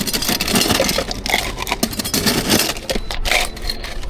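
Clatter and scraping of barista equipment at work: a busy run of clicks, knocks and scrapes over a noisy hiss.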